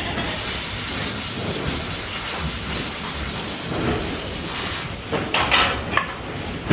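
A steady, loud hiss that starts at once and cuts off abruptly about five seconds in.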